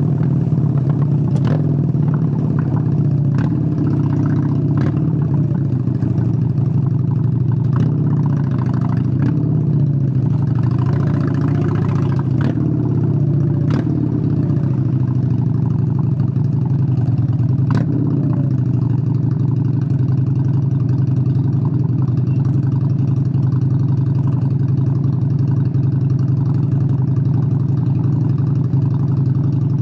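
Honda Steed 600's V-twin engine running steadily, with short sharp pops scattered through the first eighteen seconds or so before it settles into an even drone.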